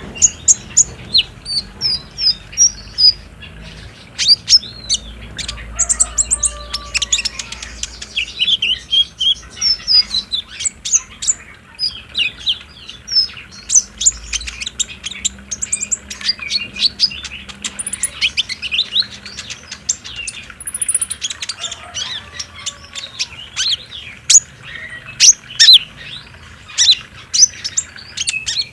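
Kolibri ninja sunbird singing a fast, unbroken run of high, sharp chirps and short sliding notes, the rapid 'trotol' song played as a lure to set caged sunbirds singing.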